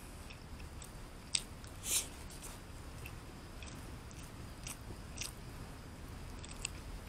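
A man chewing food close to the microphone, with scattered small clicks of eating and a louder burst about two seconds in.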